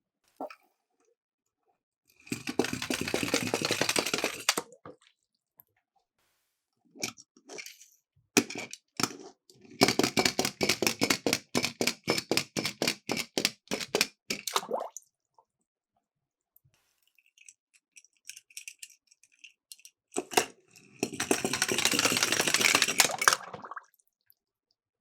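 Small toy cars rolling down a slope: two stretches of a steady rolling rattle, and in the middle a run of rapid clicking at about six clicks a second, with quiet gaps between runs.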